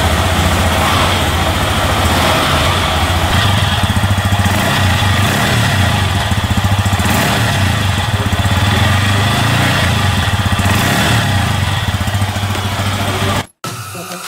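Yamaha R15 V3's 155 cc single-cylinder engine idling steadily, cut off abruptly near the end.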